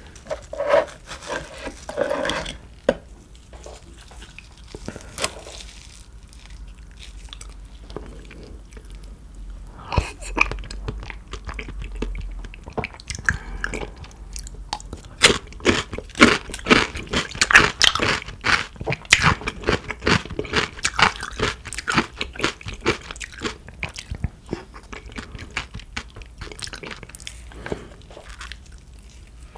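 Close-miked eating sounds: a person chewing and crunching food, the crisp crackles sparse at first, thickest through the middle and easing near the end.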